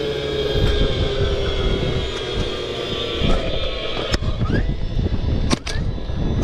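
Cordless DeWalt nail gun fastening ridge cap shingles: in the second half it fires a few times, each shot a short rising motor whine followed by a sharp crack. Before that, a steady drone that falls slowly in pitch fills the first few seconds.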